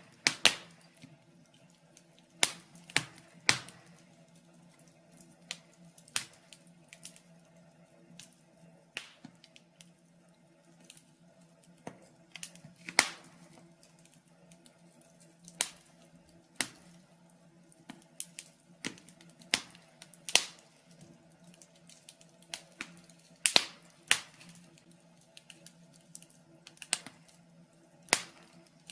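Wood fire in a fireplace crackling: irregular sharp pops and snaps, a few every couple of seconds, some much louder than others, over a faint steady low hum.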